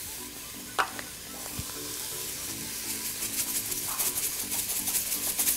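Sliced mushrooms and onions sizzling as they sauté in an Instant Pot's stainless steel inner pot. Over the second half, rapid ticking comes as a pepper shaker is shaken over the pot.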